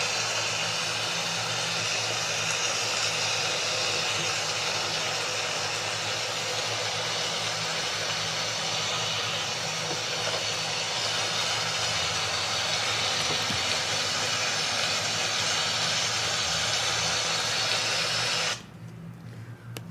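Steady hiss of heavy rain from a played rain sound effect, cutting off suddenly near the end.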